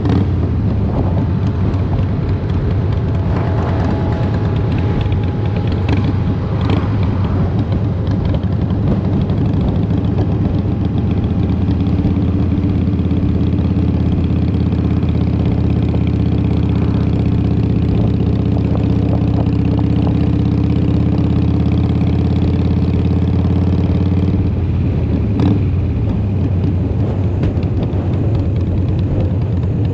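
2003 Harley-Davidson Fat Boy's Twin Cam 88 V-twin running through Vance & Hines exhaust, a steady loud rumble that shifts slightly in pitch and then holds even, with a sharp click near the end.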